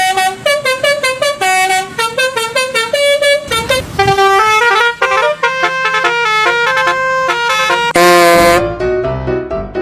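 Telolet Basuri multi-tone bus horn playing a quick melody of short notes, with one longer, louder blast about eight seconds in.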